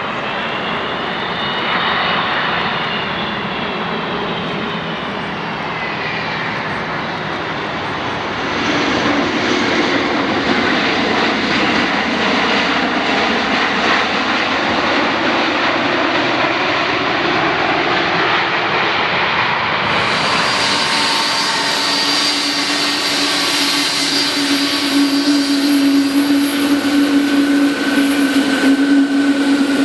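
Airplane engines of landing aircraft: a steady roar with a whine that bends in pitch during the first few seconds, growing louder about eight seconds in. About two-thirds of the way through the sound changes abruptly, and steady whining tones ride over the roar.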